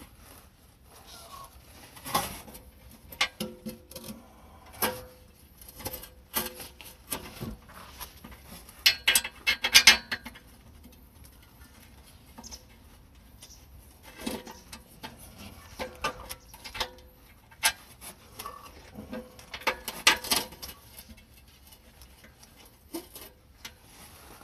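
Hand tools and metal exhaust parts clinking and knocking during a muffler change: scattered single clicks and knocks, with two bursts of quick metallic rattling and ringing, about nine seconds in and again about twenty seconds in.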